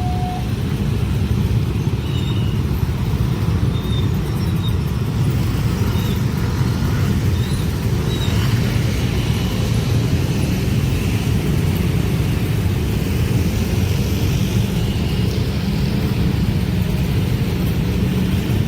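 A train passing close by, a steady low rumble of wheels on rail and running gear.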